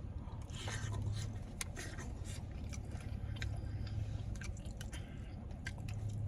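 A person chewing food close to the microphone, with irregular wet smacks and clicks of the mouth, over a steady low hum.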